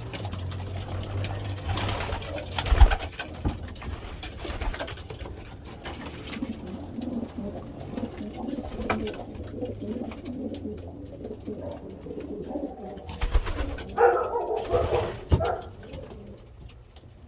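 Racing pigeons cooing in the loft, a steady low murmur of several birds, louder about fourteen seconds in. A few sharp knocks along the way.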